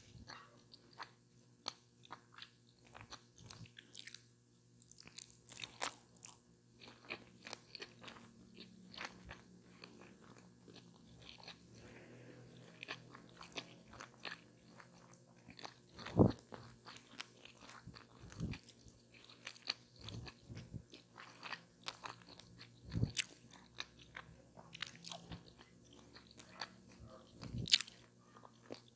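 Close-miked eating of a chicken taco with lettuce: a run of crisp, crackly crunches and chewing, with a few louder bites.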